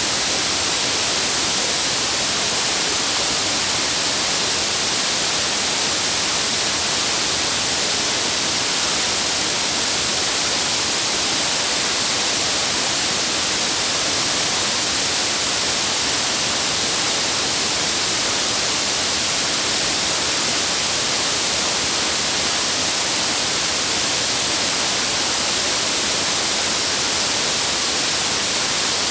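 Steady rush of falling water from a waterfall: a loud, even, hissing roar that does not change.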